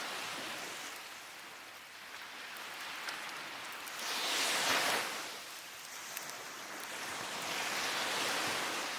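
Ocean waves breaking and washing up the beach in rushing swells, the loudest about halfway through and another near the end. A few faint crackles from a wood fire pop over them.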